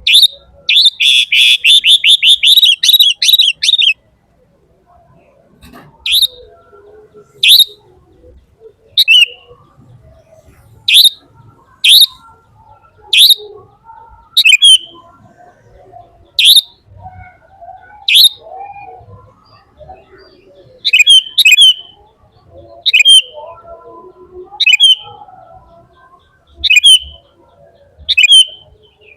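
A bird chirping close by. A rapid trill of high notes lasts about four seconds, then loud single, sharp chirps follow every second or so, some in quick pairs.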